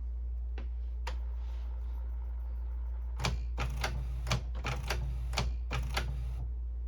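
Canon Pixma inkjet printer mechanism working with its cover off: two single clicks in the first second or so, then from about three seconds in a quick run of clacks for some three seconds as it feeds paper and prints a test page.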